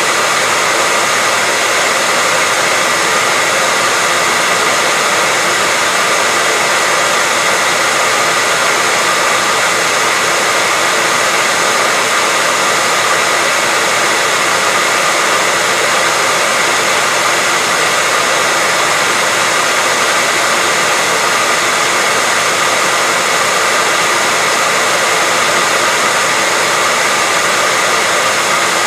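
Hair dryer running steadily on one setting: a constant, even hiss of blown air with a faint whine, unchanging throughout.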